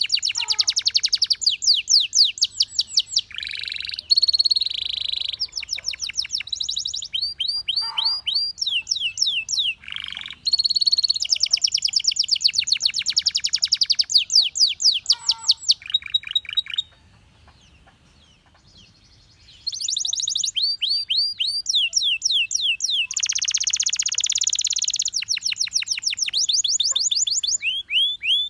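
Canary singing: a long song of fast trills and rapidly repeated high notes, changing from one phrase to the next, with a pause of about three seconds just past the middle.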